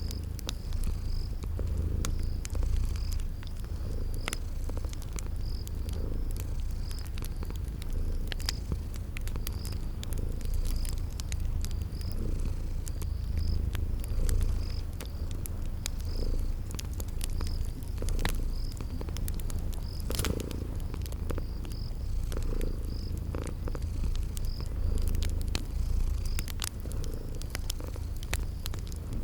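Cat purring in a steady low rumble, with the sharp pops and crackles of a wood fire scattered throughout and a cricket chirping at an even pace in the background.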